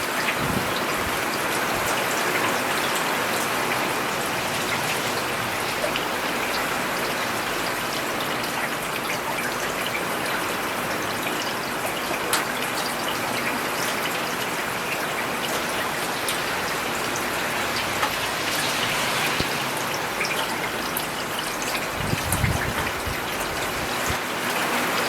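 Steady rain falling on a paved urban road, an even patter with scattered individual drop ticks. A brief low rumble comes in a few seconds before the end.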